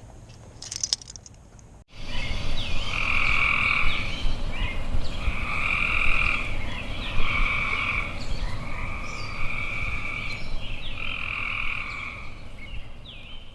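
Frogs calling: a run of trilled calls, each about a second long, repeating steadily after a cut about two seconds in, with short rising chirps between them.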